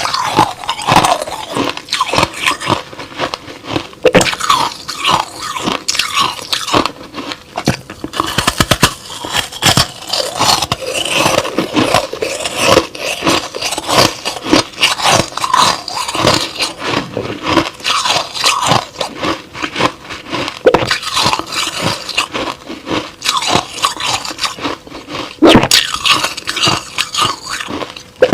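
Crushed-ice slush being bitten and chewed close to the microphone: a continuous, uneven run of crunches and crackles.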